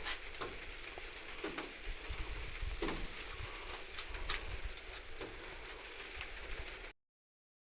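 Wind rumbling on the microphone, with scattered light patters and ticks over it. It cuts off abruptly about seven seconds in.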